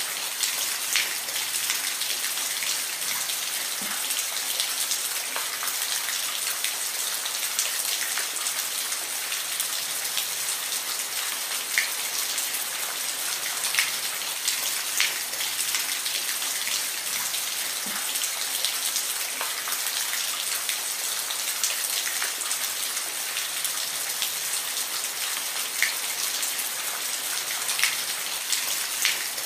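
Steady rain falling on a surface, an even hiss with scattered louder drops and drips.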